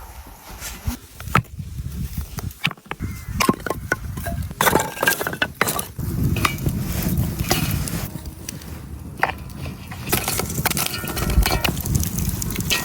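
Cooking utensils and dishes clinking and knocking in a run of separate sharp strikes, over a low rough background noise that grows louder about halfway through.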